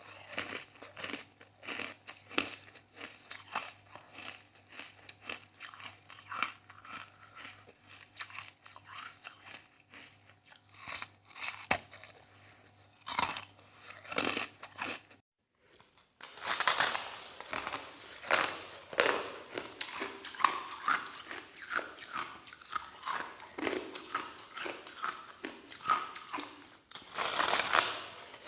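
A person chewing and crunching soft crushed ice close to the microphone: rapid, irregular crunches throughout. A low steady hum sits under the first half, and after a brief break about halfway through the crunching is louder.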